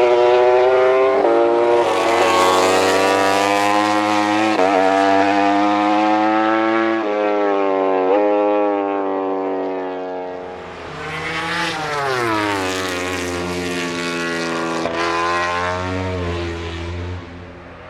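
MotoGP prototype racing motorcycle engine running hard at high revs, its pitch stepping several times with gear changes; about ten seconds in the pitch drops, then climbs again.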